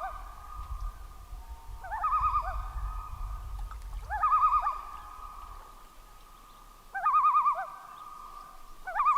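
Common loon giving its tremolo call: a rapid, wavering, quavering phrase repeated about every two seconds, with a low rumble under the first part.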